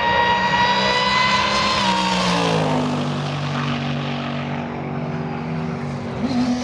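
Race car engine running hard down the drag strip: a high steady engine note for about two seconds, then the pitch drops away and lower engine tones carry on.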